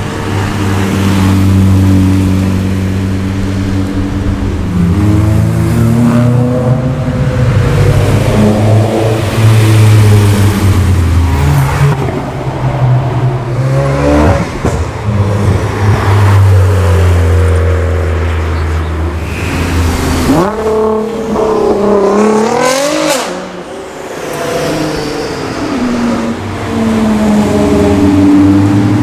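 Car engines running steadily at low revs, loud and overlapping, as cars go slowly past one after another. About twenty seconds in, one car accelerates hard, its engine note rising steeply for two or three seconds before it drops back.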